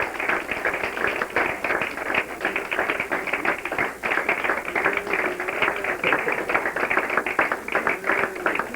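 Many hands clapping in a dense, irregular patter, with music underneath.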